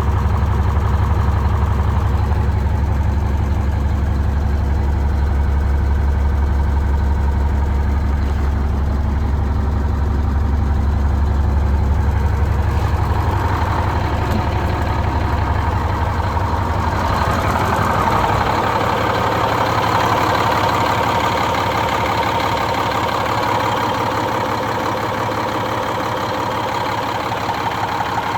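2006 International 7600 plow truck's diesel engine idling steadily. About two-thirds of the way through, the deep low rumble falls away and a brighter, higher engine note comes up.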